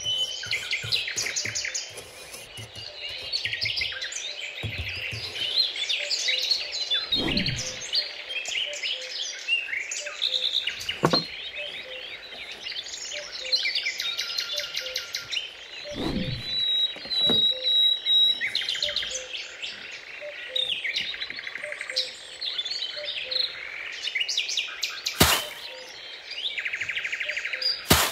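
Several small birds chirping and singing together, a busy run of short twittering calls and trills, with a sharp click near the end.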